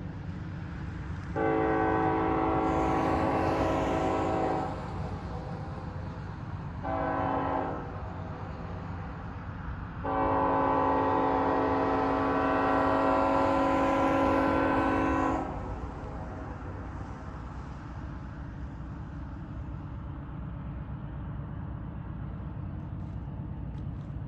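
Norfolk Southern locomotive air horn sounding three blasts, long, short, then long, over the steady low rumble of the train.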